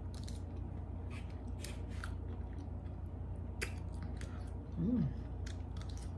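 A person chewing a spoonful of pork souse close to the microphone: a string of short wet mouth clicks and smacks. About five seconds in comes a short hummed 'mmm' that rises and falls in pitch.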